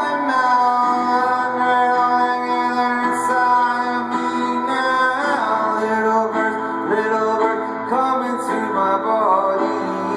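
Live music: a male voice singing over acoustic guitar, with the sung notes bending and wavering in the second half.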